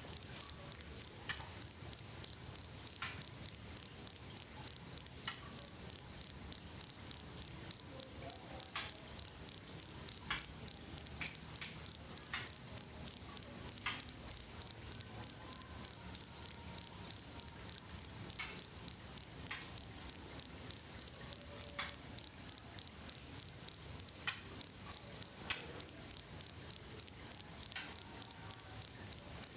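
A cricket chirping in a steady, even rhythm of about four high-pitched pulses a second, all at one pitch.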